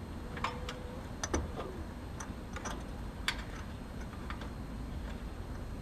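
Scattered light clicks and taps, about a dozen at irregular spacing, from handling a multimeter and its test leads at an air conditioner's capacitor. A steady low rumble runs underneath, and a short faint tone sounds in the first second.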